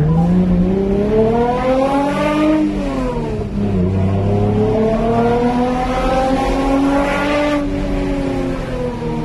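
Toyota MR2 SW20's swapped-in 2GR-FE 3.5-litre V6 breathing through aftermarket headers, a Y-pipe and a full exhaust system, heard from inside the cabin under hard acceleration. The revs climb, fall away about three seconds in, then climb again for nearly four seconds before the throttle is cut sharply near the end and the note sinks.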